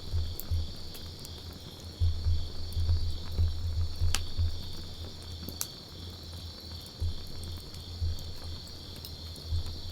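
Wood fire burning, with a few sharp crackling pops about four and five and a half seconds in and an irregular low rumble. A steady high-pitched trill runs behind it.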